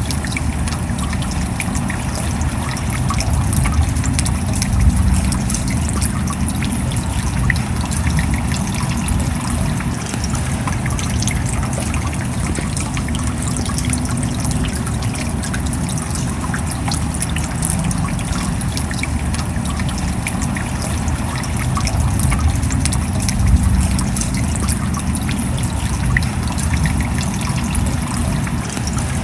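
Steady rain falling, a dense patter of many small drops over a low rumble, running water trickling in it.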